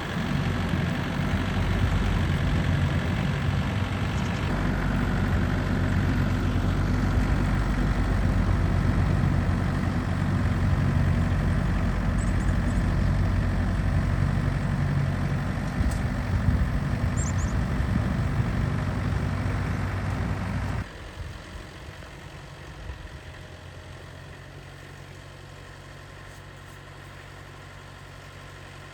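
Snowblower engine running steadily; about 21 seconds in, the sound drops suddenly to a much quieter steady engine hum.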